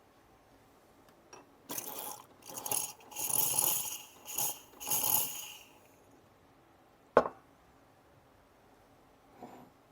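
Metal and crockery clinking and rattling in several bursts, followed by a single sharp knock about seven seconds in.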